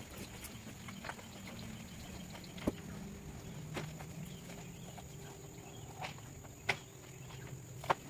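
A lorry's engine running low and steady, with a few sharp knocks from building materials being unloaded.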